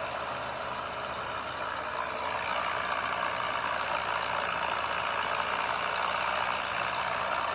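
John Deere 3010 tractor engine running steadily under load while pulling a plow. It gets a little louder about two and a half seconds in.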